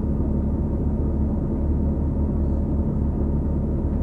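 A 2018 New Flyer XD40 transit bus running steadily, its Cummins L9 diesel and Allison B3400xFE transmission giving a continuous low rumble with a steady hum over it. The uploader puts the bus's odd sound down to the transmission bearings.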